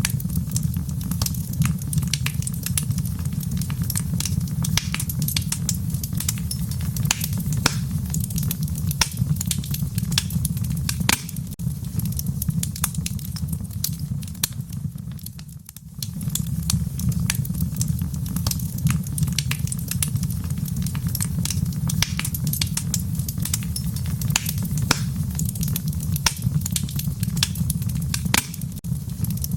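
Wood fire burning in a fireplace, crackling with many sharp pops over a low, steady rumble. About halfway through the sound briefly fades down and then comes back.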